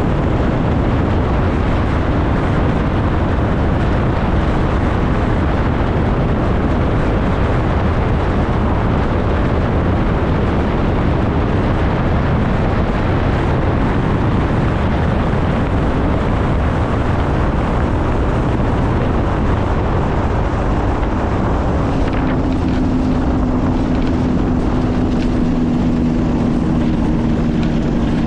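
Flightstar II ultralight's engine and propeller running steadily under a heavy, even rush of wind noise. A little past three-quarters of the way through, a steady engine tone comes through more clearly and sinks slightly in pitch.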